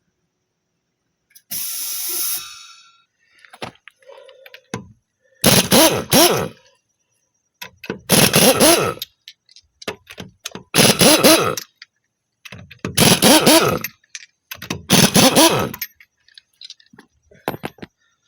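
Impact wrench run in five short bursts about two and a half seconds apart, each burst about a second long with its pitch bending as it spins, after a short hiss near the start.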